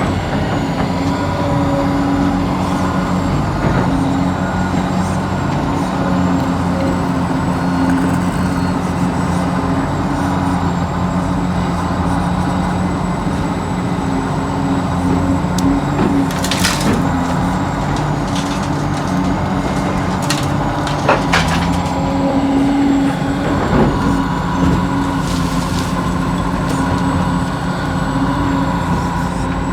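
Radio-controlled model excavator working soil: a steady electric motor and pump whine over gritty scraping and crunching of dirt. A few sharp clicks come about halfway through and again a few seconds later.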